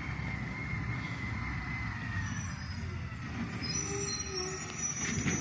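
Garbage truck running on the street, a steady low rumble with a thin high-pitched whine drifting over it.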